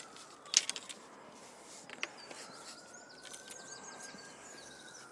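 A single sharp knock about half a second in, then small birds chirping, over a faint distant siren that slowly rises and then falls away near the end.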